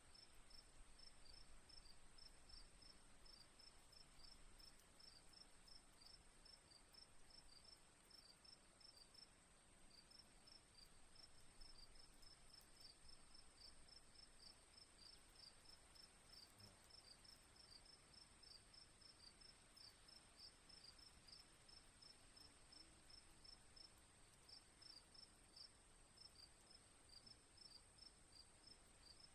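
Faint crickets chirping in quick, even pulses over a steady high-pitched ringing tone.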